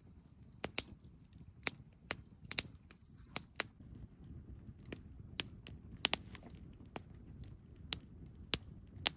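Campfire crackling: sharp, irregular pops of burning wood, about two a second, over a faint low rush.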